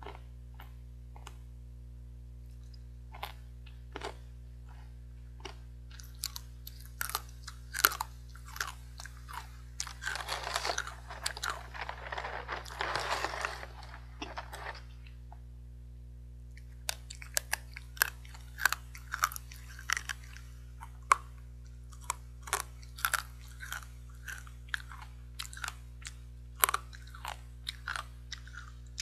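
Hard, crunchy fried sweet potato sticks being bitten and chewed close to the mouth, with a run of sharp crackling crunches. In the middle there are a few seconds of denser crinkling as a hand goes into the foil snack bag.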